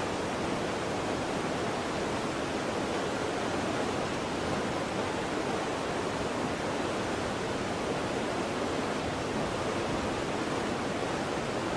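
Waterfall: falling water rushing with a steady, unbroken roar.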